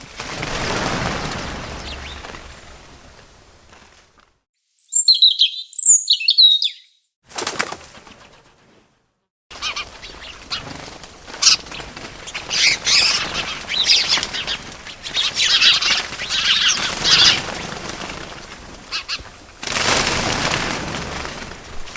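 Bird sounds: a few short, high chirps, then a long run of quick chirping and fluttering wing flaps, between rushing swells of noise at the start and near the end.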